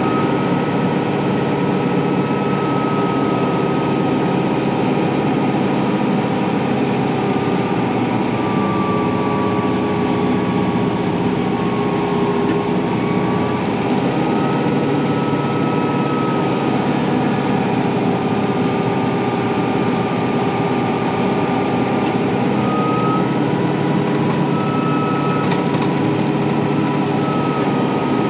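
Kubota M4-071 tractor's four-cylinder diesel engine running steadily under load, with a high whine that drifts slightly in pitch.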